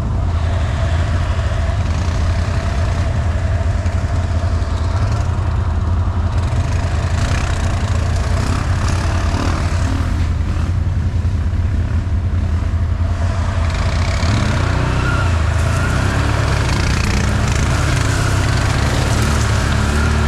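Off-road vehicle engine running steadily while under way, a loud low drone that shifts in pitch about fourteen seconds in.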